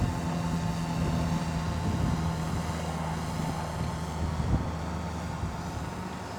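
A radio-controlled model airplane's engine and propeller droning steadily in flight, growing gradually fainter.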